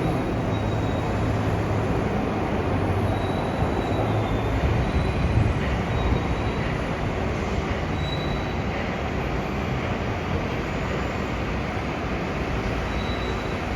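São Paulo Metro Line 15 rubber-tyred monorail train running: a steady rumble with a low hum and a faint high whine that comes and goes, a little louder about halfway through.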